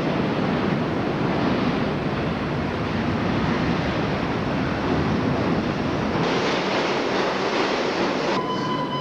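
Subway train running through a station, a steady rumbling noise from wheels and motors. A steady high tone comes in near the end.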